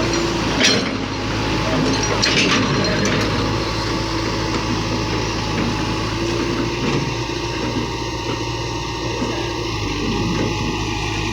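Excavator's diesel engine running steadily, with sharp clanks and knocks under a second in and again around two to three seconds in.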